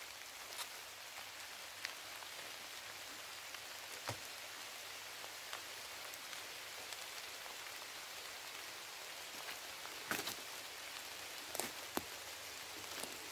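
Rain falling: a steady soft hiss with scattered louder drops pattering close by.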